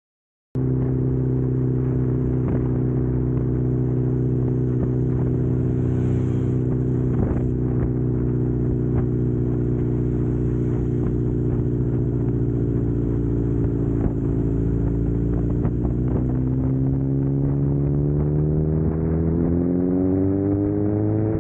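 Suzuki Katana motorcycle engine under way, holding a steady note at cruising revs. Over the last few seconds the pitch rises smoothly as the bike accelerates.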